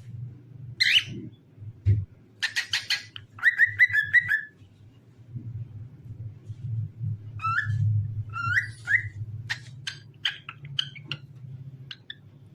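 Cockatiel whistling and chirping: a single call, a quick burst of chatter, a short run of whistled notes, then a string of rising whistles and short chirps. A steady low hum runs underneath.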